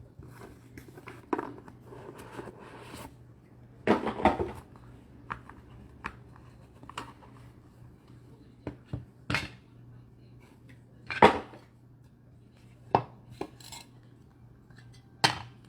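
Trading cards and hard plastic card holders being handled on a table: irregular sharp clicks and short rustles, with the loudest clacks about eleven and fifteen seconds in.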